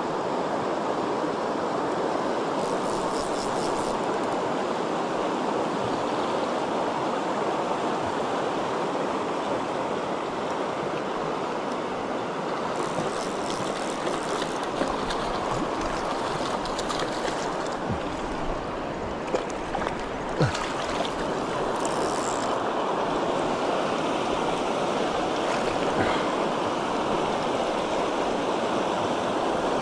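Steady rush of a fast-flowing river over rocks. In a few short spells a fly reel's ratchet clicks as line is wound in on a hooked trout, with a couple of sharp ticks a little past halfway.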